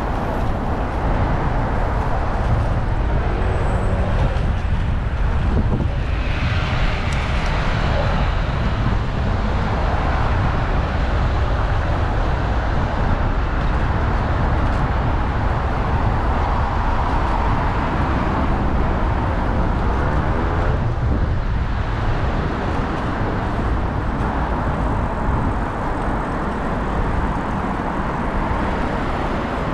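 Steady low rumble of wind and road noise on a bicycle-mounted action camera riding through city traffic, with a louder swell of passing traffic about seven seconds in.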